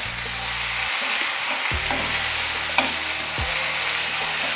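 Coarsely ground green peas sizzling in hot mustard oil in a heavy-bottomed kadhai as they are stirred, with a few short knocks of the spoon against the pan.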